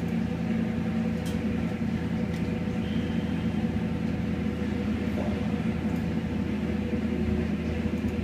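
Holden 308 V8 stroked to 355 cubic inches, idling at about 1,200–1,300 rpm on an engine dyno: a steady low hum.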